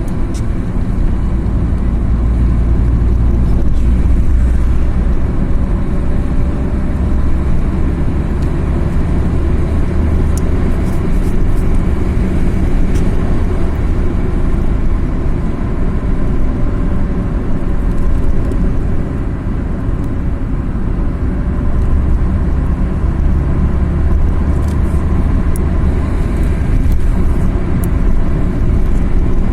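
A car driving on a mountain road: steady engine and road rumble, with a faint engine note that rises and falls gently as the car goes.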